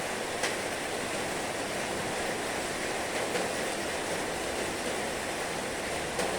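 Heavy rain falling steadily, a dense even hiss, with a few louder single drops striking now and then.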